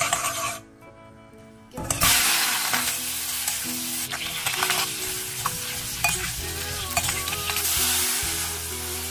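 A spatula stirs sugar in oil in a small wok, then from about two seconds in pork ribs are frying with a loud, steady sizzle while being stirred. Near the end, water poured into the hot wok hisses.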